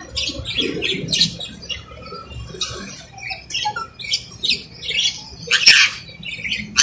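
Alexandrine parakeet giving a rapid, irregular string of short, scratchy squawks and chatter, with a louder squawk near the end.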